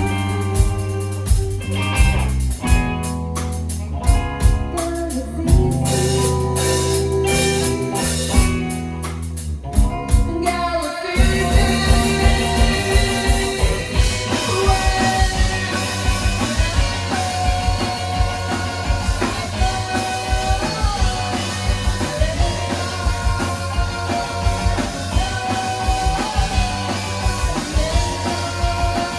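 Live band playing a song, with drums keeping a steady beat under sustained bass notes; about eleven seconds in, the music shifts into a fuller, busier section with a held melody line on top.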